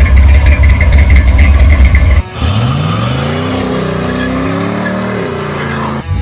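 Engine running with a heavy low rumble. After an abrupt cut, an engine revs up and down several times.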